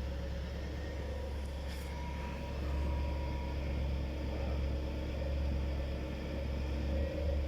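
Volkswagen Phaeton running, a steady low rumble with a faint higher tone, and a brief click a couple of seconds in.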